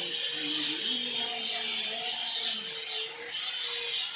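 Handheld power tool running steadily with a high-pitched whine over hiss, the whine wavering slightly in pitch.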